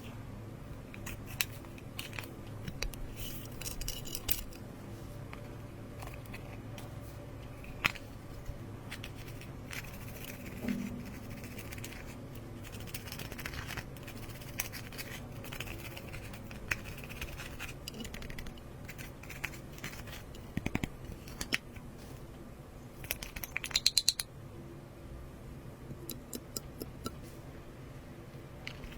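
Slime being worked by hand, with scattered sticky clicks and crackles and a quick run of louder pops about three-quarters of the way through.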